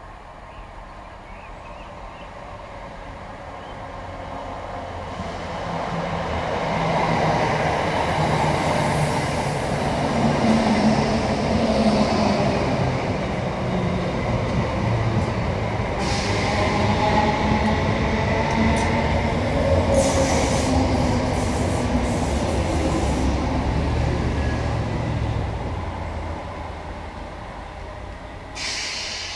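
Electric multiple-unit passenger train running along the platform. Rumble and wheel-on-rail noise build as it approaches, stay loud for most of the pass, then fade as it draws away.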